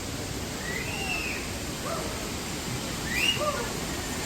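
Waterfall rushing steadily, with two short high whistle-like calls rising and falling over it, about a second in and again near the three-second mark.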